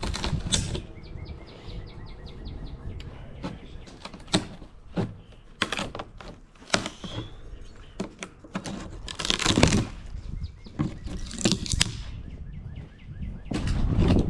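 Irregular knocks and clacks of wooden deck boards and lumber being handled and struck during deck repair, the loudest around the middle and near the end. A bird chirps in a quick run of notes a second or two in.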